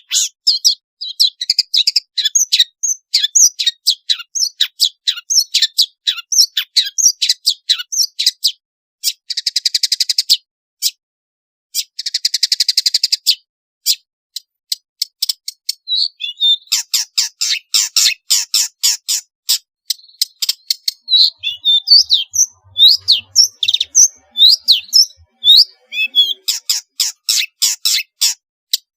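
Long-tailed shrike (pentet) singing a fast, varied song of rapid chattering and whistled notes. About nine and twelve seconds in it breaks into two rapid buzzy trills, each a couple of seconds long.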